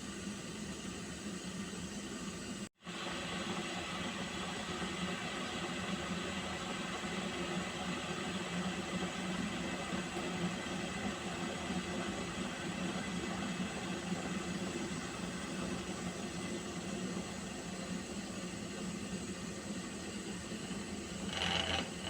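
Water heating toward the boil, a steady hiss that drops out for an instant about three seconds in; a short louder sound comes near the end.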